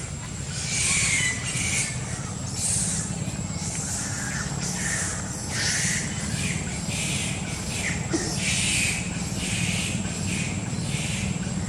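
Monkeys giving short squawking calls, one about every second, over a steady low hum.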